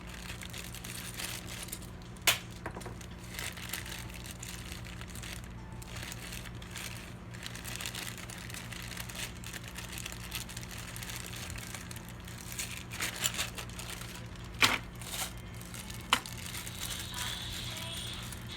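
Crinkling and rustling from handling PC components and their plastic packaging, with a few sharp clicks of parts being handled, over a steady low hum.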